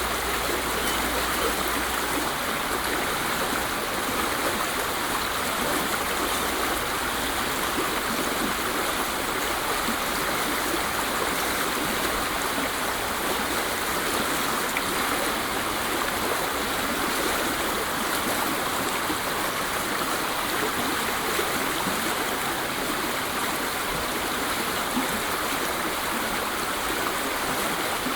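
Waterfall: water rushing and splashing in a steady, unchanging stream.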